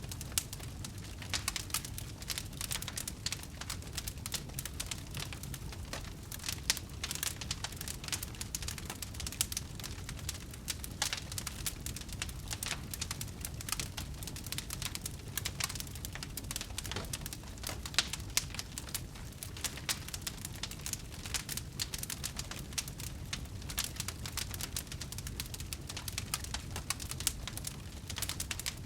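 Wood fire burning, with dense, irregular crackles and pops over a low, steady rumble, and one sharper pop about eighteen seconds in.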